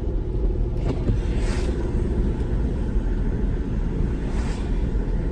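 Car cabin noise while driving: a steady low rumble of engine and tyres, with two soft swishes about three seconds apart, the first around a second and a half in.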